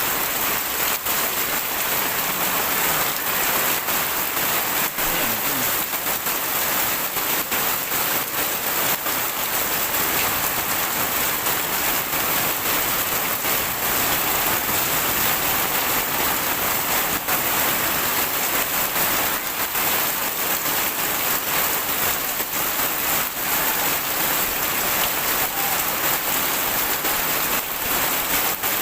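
Heavy rain pouring steadily, a dense hiss of rain on surfaces with many small drop impacts.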